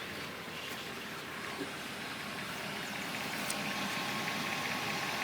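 1995 BMW 540i's 4.0-litre V8 idling steadily, growing slightly louder toward the end. It is a slightly rough, lumpy idle that the owner suspects comes from an ignition coil or injector not quite doing its job.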